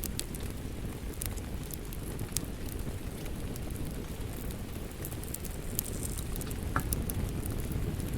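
Wood fire crackling with scattered sharp pops, over a steady low rush of rain.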